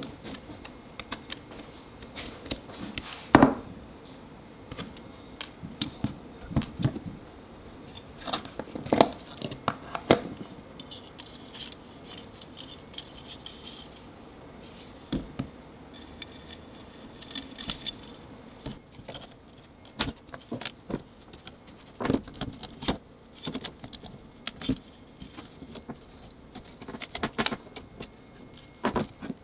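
Irregular clicks, knocks and light metallic clatter of small parts and hand tools being handled, with the loudest knock about three and a half seconds in.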